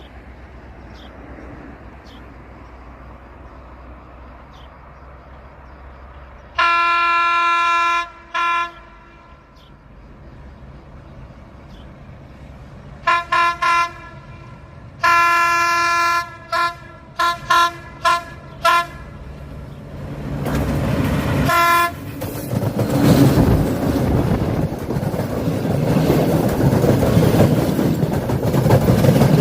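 Locomotive horn sounding repeatedly as the train approaches: a long blast with a short one after it, then a run of short toots and a longer blast. In the last third the train passes close by, its wheels rumbling and clattering over the rail joints, growing loud.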